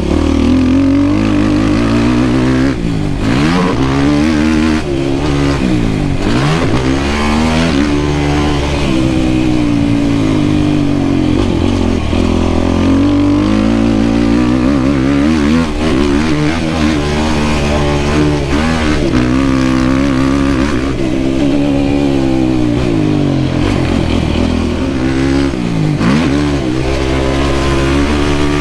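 Yamaha YFZ450R quad's single-cylinder four-stroke engine being ridden hard, its pitch climbing under throttle and dropping off again every few seconds as the rider accelerates and backs off.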